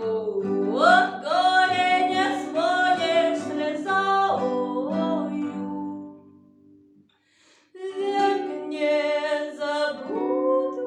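A woman singing a lyrical Russian romance with vibrato over acoustic guitar accompaniment. A little past the middle, the music breaks off for about a second and a half, then the voice and guitar come back in.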